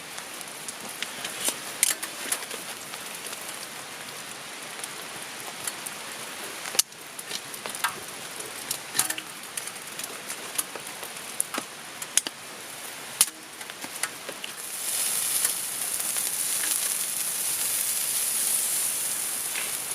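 Steady rain with scattered sharp clicks and pops, the sound of drops on a tarp and a crackling campfire. About fifteen seconds in, a louder, higher hiss sets in and holds.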